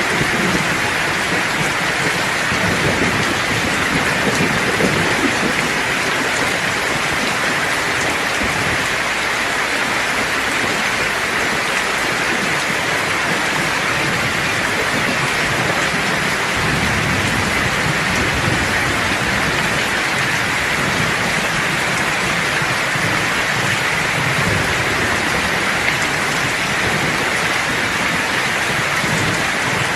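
Steady rain with low rumbles of thunder rolling in and out: a few seconds in, around the middle, and again near the end.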